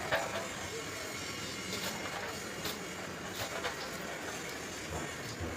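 Steady workshop background noise with a few scattered light clicks and knocks, as from metal parts and tools being handled.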